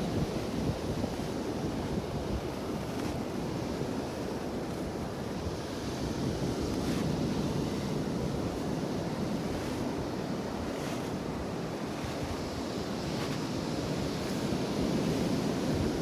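Ocean surf washing steadily with wind buffeting the microphone. A few faint crunches of footsteps in dry, squeaky beach sand come through every few seconds.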